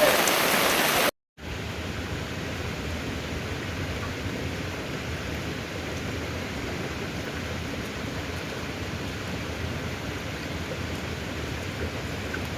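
Heavy rain pouring steadily. About a second in it cuts off abruptly, and after a brief silence a quieter, duller steady rain hiss carries on.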